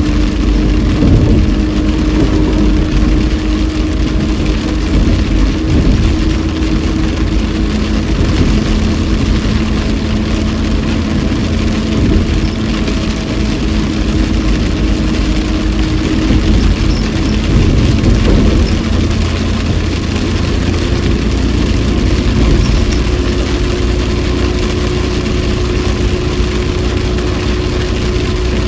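Car cabin noise while driving in heavy rain: steady engine hum that shifts pitch a few times, over a constant hiss of tyres on the wet road and rain on the car.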